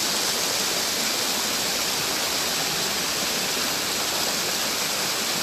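Steady rushing of water from a small stream spilling down into a narrow gully, an even hiss with no breaks.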